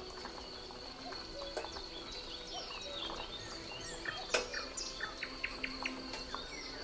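Wild birds chirping and calling in short, gliding notes, over a faint steady high-pitched whine. A single sharp click comes about four seconds in, followed by a quick run of short rising chirps.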